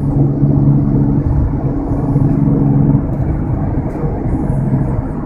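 Porsche 996 Turbo's twin-turbo flat-six running at a steady speed, its even engine hum and road rumble heard inside the cabin; the hum shifts slightly about three seconds in.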